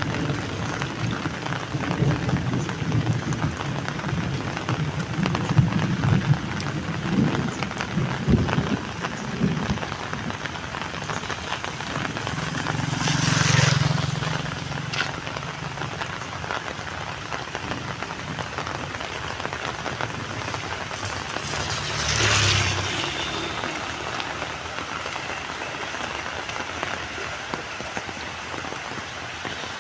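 Heavy rain falling steadily, with a low rumble in the first third. Two brief swells of louder rushing noise come about halfway through and again about three-quarters of the way in.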